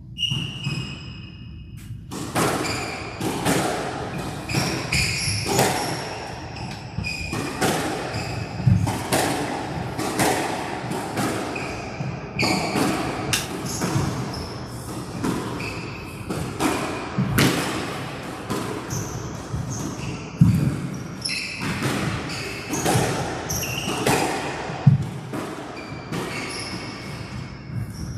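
A squash rally: the ball is struck by racquets and cracks against the court walls every second or so, with short squeaks of players' shoes on the court floor.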